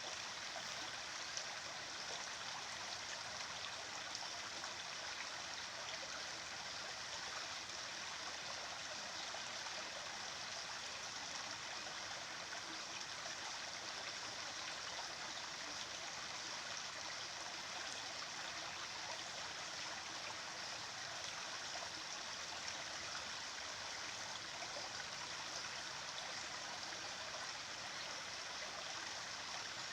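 A stream of running water, a steady, even rushing that does not change.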